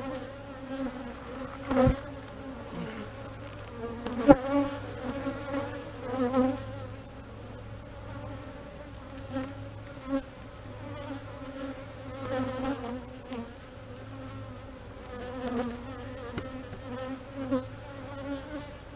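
Honey bees buzzing steadily around an open hive, with a few sharp knocks of hive parts being fitted back together, the loudest about two and four seconds in.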